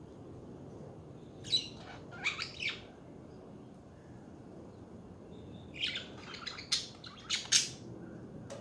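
Pet budgerigars chirping in two short bursts of quick, sharp calls, the first about a second and a half in and the second from about six seconds in, over steady low background noise.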